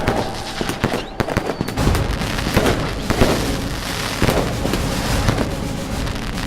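Fireworks going off: dense crackling with many sharp pops and bangs close together, over a low rumble.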